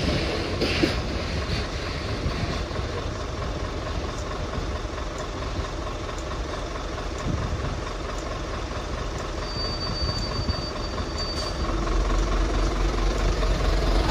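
Freight train rolling past over the level crossing, a steady rumble and rattle of wagons with wheel clicks near the start and a brief thin high-pitched squeal about ten seconds in. Near the end a lower engine rumble builds up.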